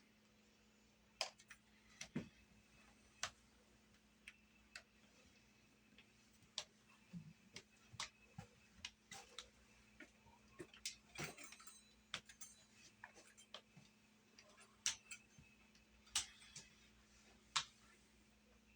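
Faint, scattered clicks and taps at uneven intervals, the sound of kitchen utensils tapping and rolling on a floured dough board.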